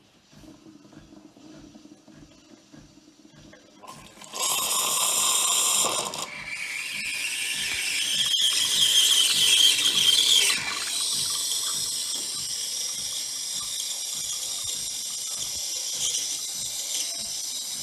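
Siemens CT636LES6 built-in fully automatic coffee machine at work. After a few seconds of faint hum, a loud burst of mechanical noise starts about four seconds in, then the machine hisses and gurgles as liquid flows, with a whistling tone that rises and holds for a few seconds before settling into a steady hiss.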